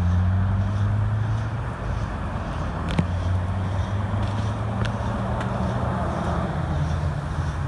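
A motor vehicle engine runs steadily close by, with road traffic noise around it. A single sharp pop stands out about three seconds in, with a couple of fainter clicks later.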